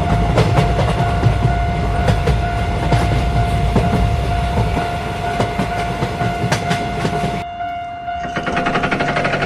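Train passing a level crossing: a loud low rumble with rapid wheel clatter on the rails, under a steady high tone. The rumble cuts off abruptly about seven and a half seconds in, and a fast, even ringing follows near the end.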